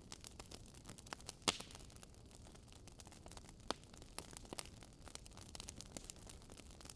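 Campfire crackling: a dense scatter of small irregular snaps over a soft hiss, with a louder pop about one and a half seconds in and another a little past halfway.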